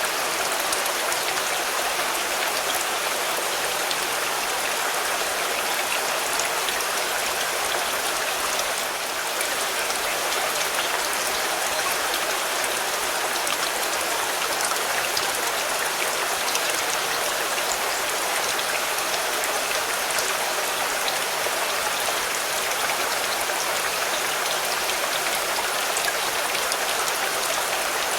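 Steady rain falling on a car: an even hiss with individual drops ticking through it.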